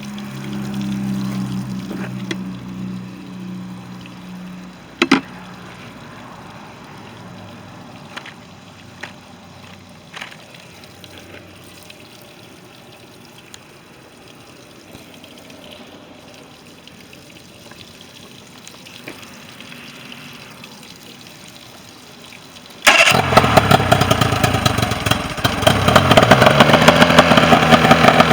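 Mercury 40 hp outboard motor starting suddenly after a long quiet stretch and then running loudly, its revs climbing a little soon after it catches: the motor now runs after its no-start problem. Before it, a low steady hum for a few seconds and a single sharp click.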